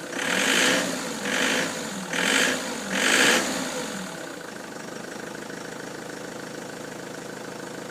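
Ford Transit van engine blipped four times in quick succession, then settling back to a steady idle. The van has fault codes P0149 and P1564 stored.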